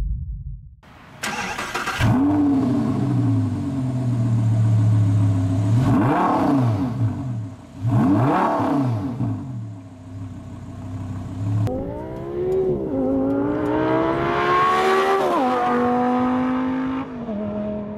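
Audi R8 V10 engine through a lightweight X-pipe exhaust, catching with a sudden burst about a second in and flaring before settling to idle. Two quick throttle blips follow, then a longer higher rev that climbs and drops back near the end.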